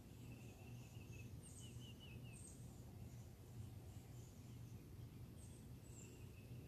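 Faint outdoor birds calling: scattered short high chirps and a quick run of notes in the first two seconds, over a steady low hum.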